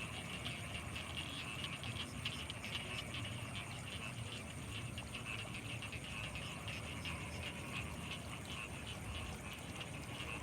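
Night chorus of many frogs calling in quick short pulses, with a steady high-pitched whine and a low rumble underneath.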